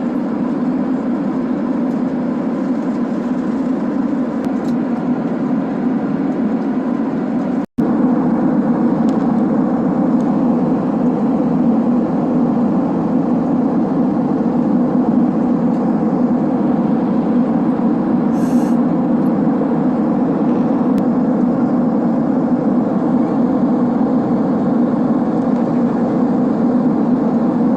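Steady drone of a Boeing 767-300ER's passenger cabin in flight, jet engine and airflow noise heard from inside the cabin. It cuts out for an instant about eight seconds in.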